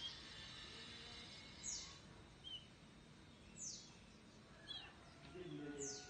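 Pied bushchat (decu), a young bird still learning its song, giving short high falling whistles about every two seconds, with a few soft chirps in between.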